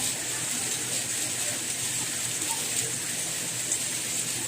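Steady soft rain: an even hiss with a few faint drop ticks scattered through it.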